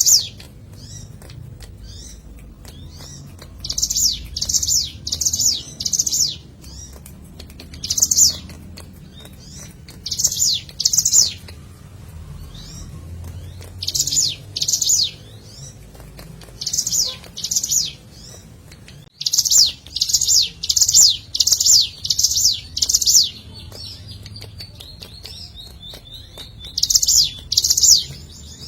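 Ciblek gunung, a prinia, singing: runs of loud, high, rapid notes, each a short downward sweep, repeated two to eight at a time with short pauses between runs. The longest run comes about two-thirds of the way through.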